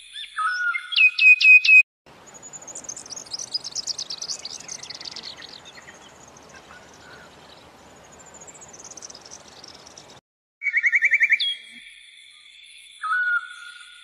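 Recorded birdsong: whistled bird calls and fast chirping trills, cut into pieces by two brief sudden dropouts. In the middle stretch high twittering trills sit over a steady hiss.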